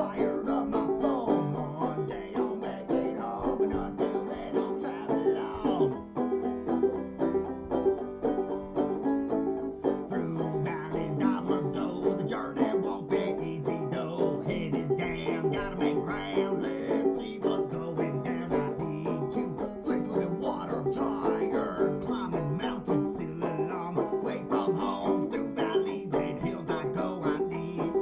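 Acoustic string-band music: an instrumental passage of fast banjo picking over guitar, with quick, continuous plucked notes.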